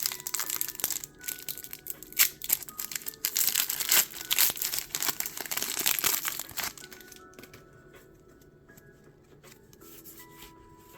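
Pokémon card booster pack wrapper crinkling and tearing as it is opened, busy and crackly for the first six or seven seconds, then stopping. Faint background music is left.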